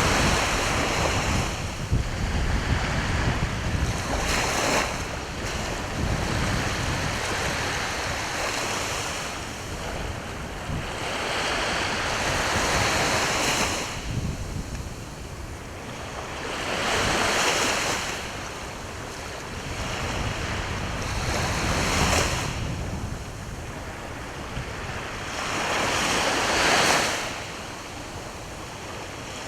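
Sea waves breaking and washing up the shore, the surf swelling and ebbing every four to five seconds, with wind rumbling on the microphone.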